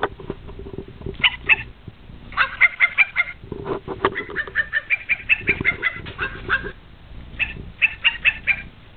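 Ferrets dooking: rapid, high clucking chatter in several runs, the excited play sound ferrets make, with some lower bumps between.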